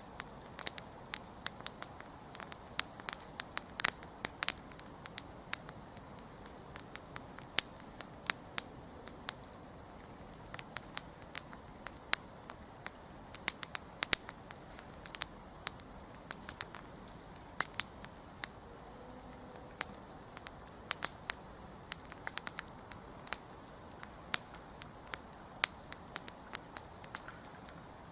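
Wood campfire crackling: irregular sharp pops and snaps, several a second in bursts, over a soft steady hiss of burning.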